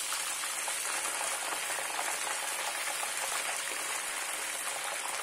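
Sweet corn kernels coated in cornflour deep-frying in hot oil in a pan: a steady, even sizzle of bubbling oil.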